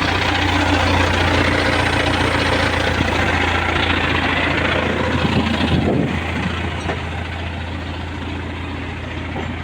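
Vehicle engine idling: a steady low hum under a broad mechanical noise. About six seconds in, it becomes quieter and duller.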